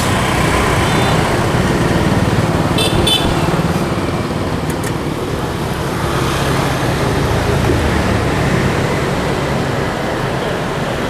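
Street traffic: motorbike and car engines running past in a steady stream, with two short high clinks about three seconds in.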